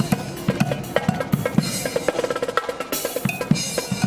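Marching band playing, led by snare and bass drums beating a quick, steady rhythm, with a few held instrument notes above.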